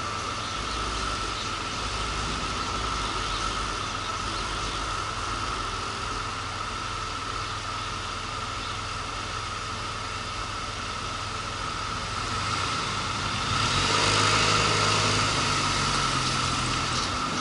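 Motorcycle engine running under the rider, mixed with steady road and wind noise. About three-quarters of the way through the sound swells for a couple of seconds with a deeper engine note, then settles.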